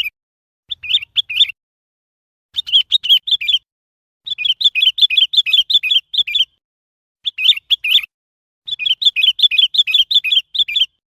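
Sooty-headed bulbul calling: short phrases of quick, bubbly chirping notes, five phrases in all, broken by brief silent pauses.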